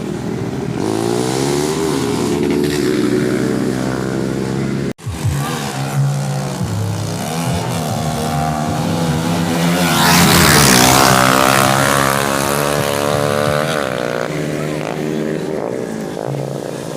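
Motorcycle engines revving and accelerating, their pitch rising and falling several times, loudest about ten seconds in as a bike passes close. The sound cuts out for an instant about five seconds in.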